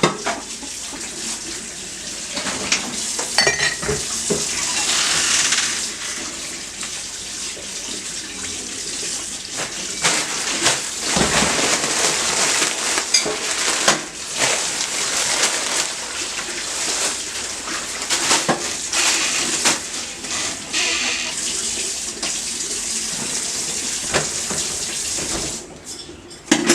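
Water running from a tap into a sink, with dishes and cutlery clinking and knocking now and then: dish washing.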